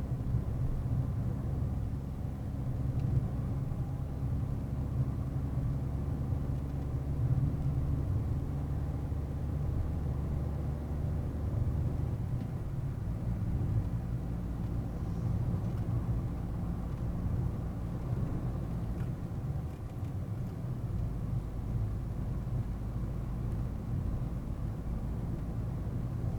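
Car engine and road rumble inside a moving car, picked up by a dashcam. The low engine note holds steady, then shifts about halfway through and again near the end as the engine speed changes.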